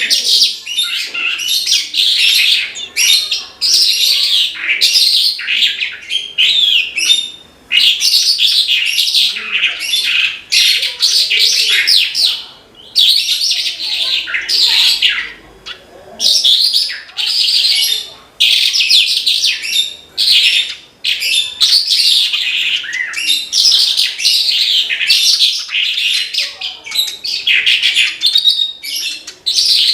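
Javan bush lark (branjangan) in full song: a long, fast run of high chirps and trills with only a few brief pauses.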